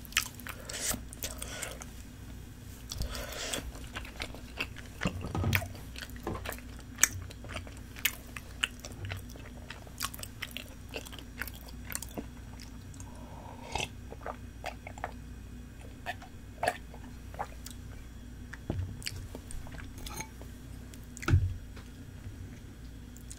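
Someone chewing spicy tteokbokki rice cakes and fish cake: wet mouth clicks and smacks at an irregular pace over a steady low hum, with one louder knock about two seconds before the end.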